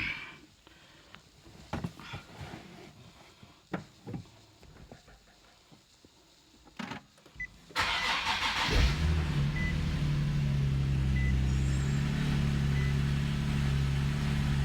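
Nissan 370Z Nismo's 3.7-litre V6 starting from cold: after a few faint clicks and knocks, the starter cranks for about a second, then the engine catches and settles into a steady idle.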